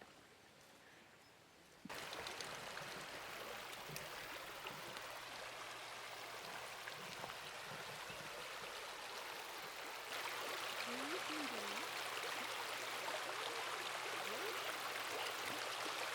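Mountain stream water rushing over rocks, a steady wash that comes in about two seconds in and grows louder about ten seconds in.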